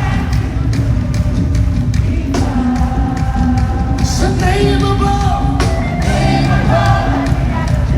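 Live worship band music with loud bass and drums, and sustained singing coming in a few seconds in.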